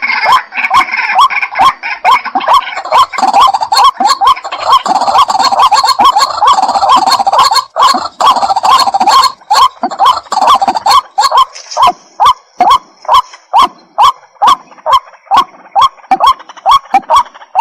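White-breasted waterhen calling: a rapid run of repeated harsh notes, dense and overlapping at first, settling after about twelve seconds into an even series of about three notes a second.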